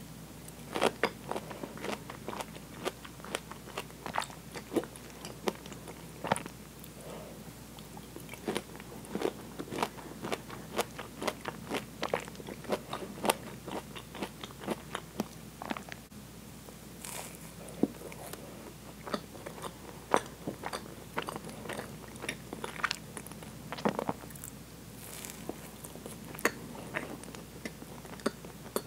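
Close-miked chewing of fresh pineapple chunks dusted with cinnamon: a run of irregular wet mouth clicks and bites.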